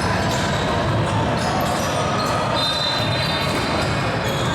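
Basketball dribbled and bouncing on a gym floor amid a steady din of players and spectators in a large hall, with a brief thin high tone about two and a half seconds in.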